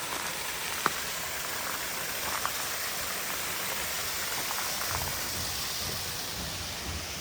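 Steady rush of water from a waterfall, with a single click about a second in and a low rumble joining about five seconds in.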